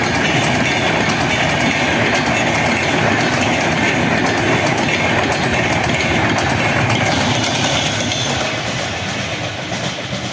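Indian Railways passenger train rushing past at speed, a steady loud roar of wheels on rail and passing coaches, easing slightly near the end.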